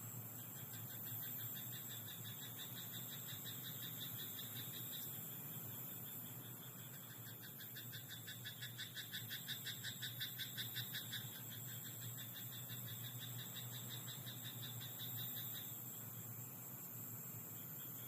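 Frogs croaking in a rice paddy: a rapid, pulsing trill that swells to its loudest in the middle, beating about three times a second, and stops a couple of seconds before the end. A steady high-pitched hiss runs underneath.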